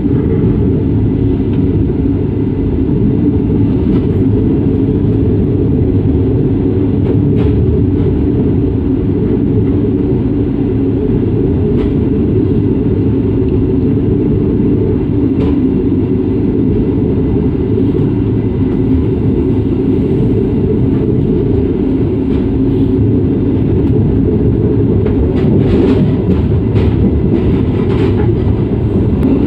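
A passenger train running, heard from inside the coach: a steady low rumble with scattered light clicks.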